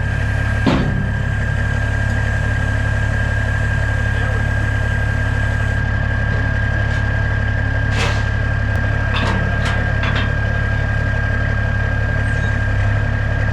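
Heavy diesel engine running steadily with a constant low drone and a thin, steady high-pitched whine. A few sharp clicks come about a second in and again near the two-thirds mark.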